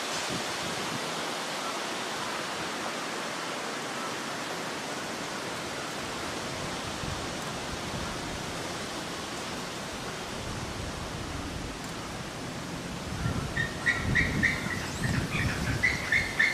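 Strong wind blowing, a steady rush. About three-quarters of the way in, heavier gusts buffet the microphone and a rapid run of high, repeated chirps starts and keeps going.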